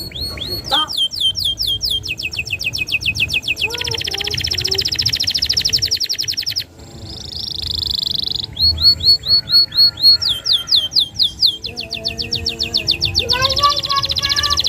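Domestic canary singing a long, vigorous song of rapid trills and fast runs of repeated down-sweeping notes, with one brief break about six and a half seconds in.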